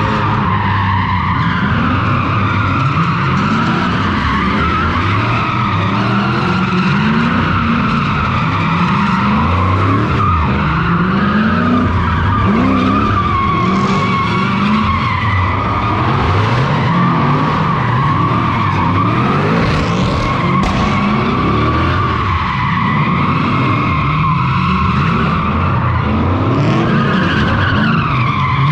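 Straight-piped 3UZ V8 drift car revving up and down again and again as it slides, with continuous tyre squeal.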